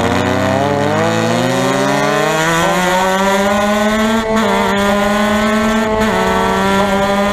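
Formula Mazda race car's rotary engine accelerating hard, its note climbing steadily for about four seconds. Two quick breaks come about four and six seconds in, typical of upshifts, after which it holds a high, nearly steady pitch.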